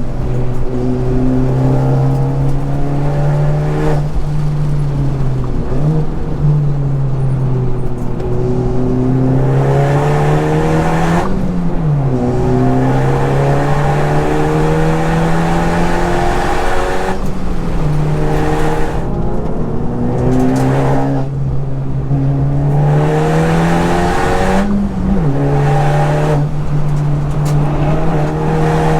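Modified Honda Civic Type R FK8's turbocharged 2.0-litre four-cylinder under hard acceleration on track. The engine note climbs steadily through each gear and drops sharply at each gear change, several times over.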